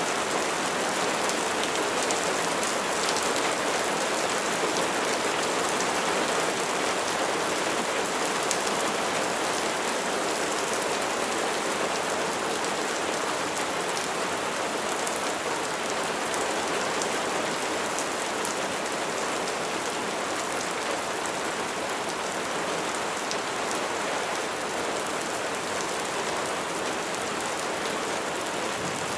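Steady rain falling on a surface, with individual drops ticking through the constant patter.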